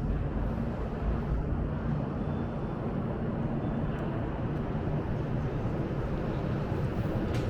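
Steady low rumble of city background noise, like traffic, with no single sound standing out.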